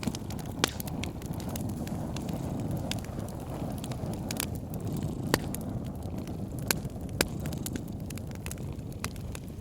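Wood fire crackling with scattered sharp pops, the loudest about half a second in and three more between five and seven seconds in, over a steady low rumble of a cat purring.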